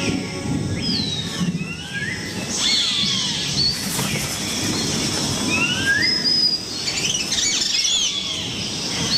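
Harpy eagle calls: repeated thin, high whistles that slide up and down in pitch, over a low rustling flutter of wingbeats.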